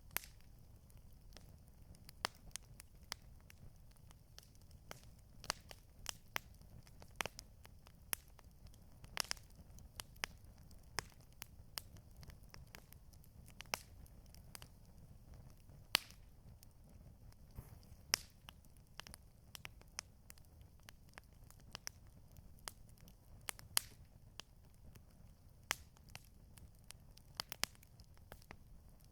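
Campfire crackling, with irregular sharp pops and snaps a few times a second over a low steady rumble.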